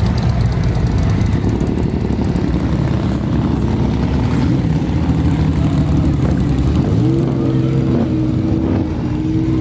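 Motorcycle engine running steadily; about seven seconds in its pitch rises and holds higher, as with a rev held up.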